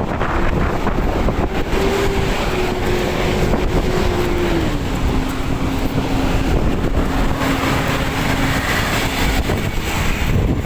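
Food-scraps collection truck running, with wind buffeting the microphone; its steady engine tone drops in pitch about halfway through and fades out near the end.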